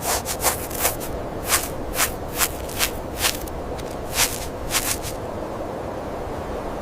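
Rasping rubbing or scraping strokes, about two or three a second, over a steady hiss; the strokes stop about five seconds in while the hiss goes on.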